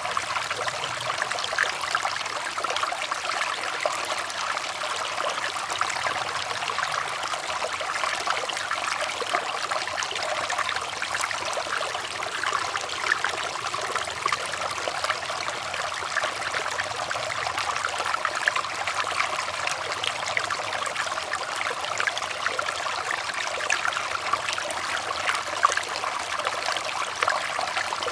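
Running water trickling and splashing steadily, a continuous babble of small splashes without pause.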